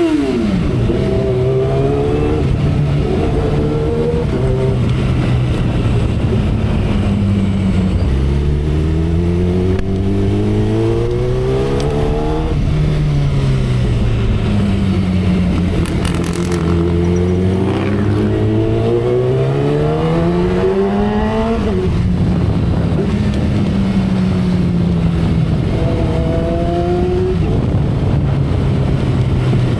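2012 Kawasaki Ninja ZX-10R inline-four engine running at speed. The revs climb twice, about eight to twelve seconds in and again about fifteen to twenty-one seconds in, and each climb ends in a sudden drop in pitch. Between the climbs it holds a steadier note.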